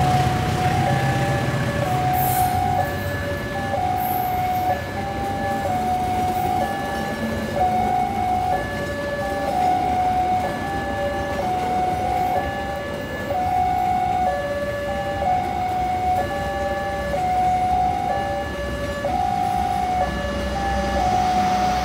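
Railway level-crossing alarm ringing a steady electronic two-note warning, high then low, over and over, over the rumble of train noise.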